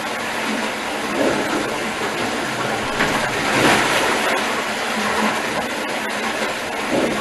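Crofton steam beam pumping engine at work: a steady rush and hiss of steam and machinery that swells and eases a few times.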